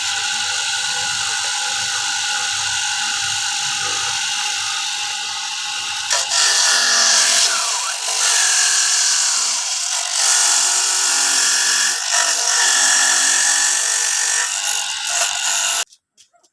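Electric coconut grating machine running and grating coconut, a steady mechanical whirr. From about six seconds in it grows louder and rises and falls unevenly, and it cuts off suddenly near the end.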